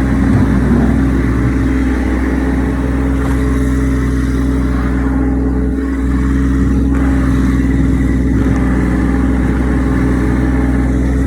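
Massey Ferguson tractor engine running at a steady speed, with a brief dip in tone about six seconds in.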